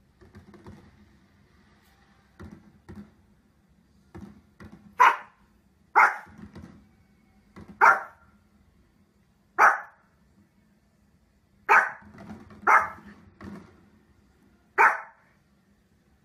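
Small dog barking: a few soft low woofs, then a series of about seven sharp single barks spaced one to two seconds apart.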